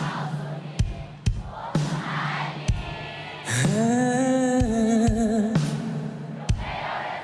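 A live band plays a slow pop-rock song over a steady drum beat. Midway through, a single voice holds one long note with vibrato for about two seconds.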